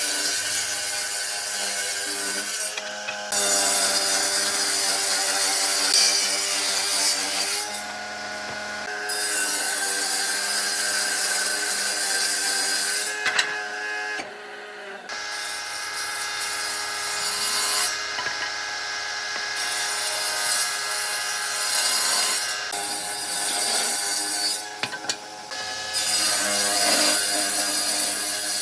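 A power tool working wood: a steady motor tone under a rough rasping noise, breaking off and changing character every few seconds.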